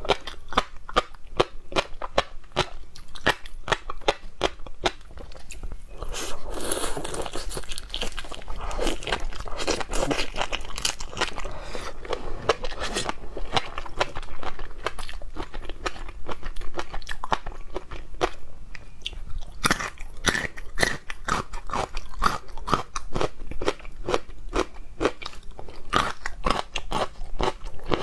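A person chewing and crunching seafood close to the microphone: a rapid, continuous run of crisp crunches and bites, with a stretch of more continuous chewing noise in the middle.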